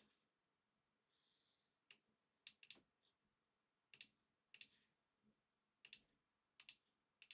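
Faint computer mouse clicks, a handful of sharp clicks, several in quick press-and-release pairs, spaced out over a few seconds as settings are clicked through.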